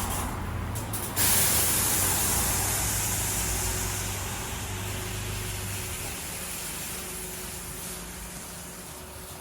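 WashTec SoftCare Pro Classic gantry car wash spraying water, starting suddenly about a second in with a loud hiss that slowly fades. A low steady hum runs underneath and stops about six seconds in.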